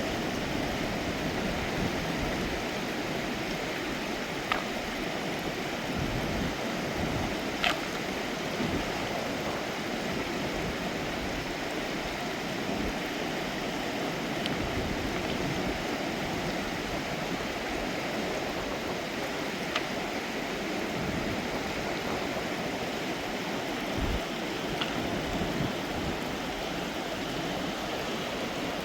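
Mountain river water flowing steadily, with a few short, sharp clicks over it, the loudest about eight seconds in.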